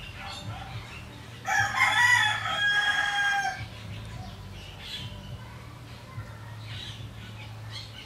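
A bird's long, loud call starting about one and a half seconds in and lasting about two seconds, with faint short chirps before and after it and a low steady hum underneath.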